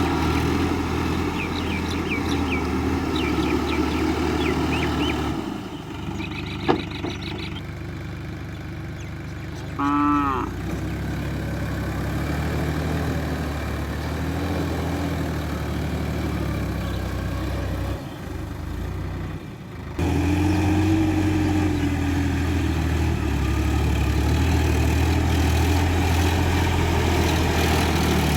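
Diesel engine of a Sonalika Worldtrac 60 RX tractor running steadily under a low drone, the sound changing abruptly at about five and twenty seconds in. A single sharp click near seven seconds in and a brief animal call near ten seconds in.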